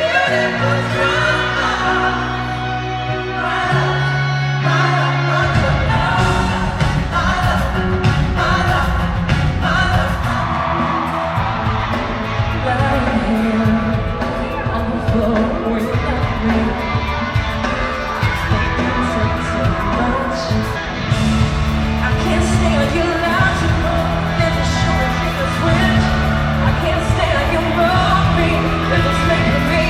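Live pop-rock band playing with a lead singer, heard from the audience in an arena: amplified vocals over sustained bass notes and full band, with some yelling from the crowd.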